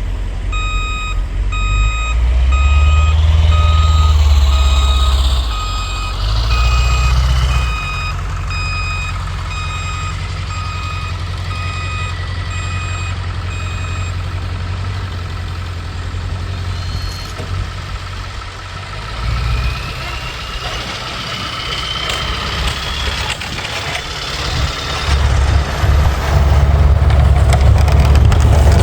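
A 7.3-litre Power Stroke V8 turbo-diesel pickup engine running under load while plowing, revving up loudly a few times and then easing off. For the first half, a reversing alarm beeps about once a second.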